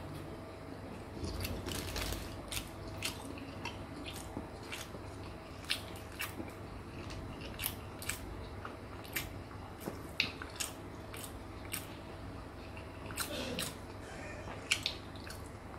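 A man chewing a mouthful of fried chicken burger in a sesame bun, close to the microphone. Sharp, wet mouth clicks come at uneven intervals, a few every second.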